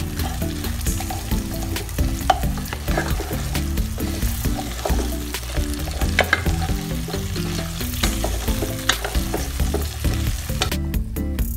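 Pork pieces with onion and garlic sizzling as they fry in a stone-coated pot, stirred with a wooden spatula that scrapes and knocks against the pot. The sizzling cuts off near the end.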